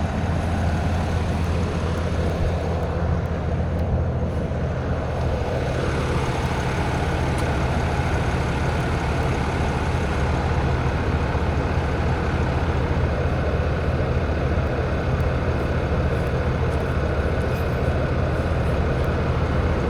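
A vehicle engine running steadily at idle: a constant low hum with no change in pitch.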